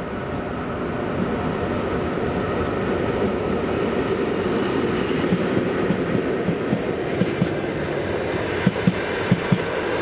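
An electric-locomotive-hauled train approaching and passing, its rumble growing louder. From about halfway in, the wheels knock over rail joints, with sharp knocks coming in close pairs near the end.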